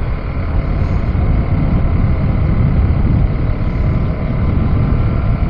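KTM 390 Adventure motorcycle's single-cylinder engine running steadily while riding, under a heavy, even low rumble.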